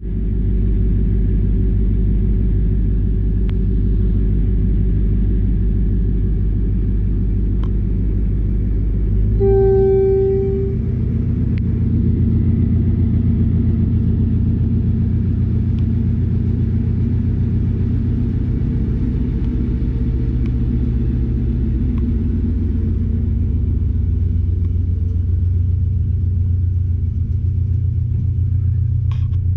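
Class S13A diesel multiple unit powerset running with a loud, steady low rumble as it pulls out of the station. A single short horn toot sounds about ten seconds in, and the rumble's low tone shifts at the same moment.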